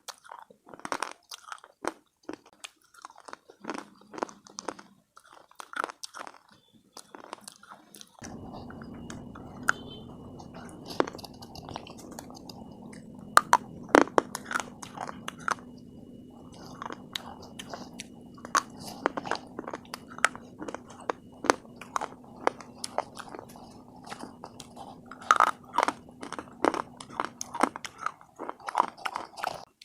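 Close-up biting and crunching of hard slate pieces: rapid sharp cracks and gritty chewing. From about 8 seconds in, a steady low hum runs underneath, stopping shortly before the end.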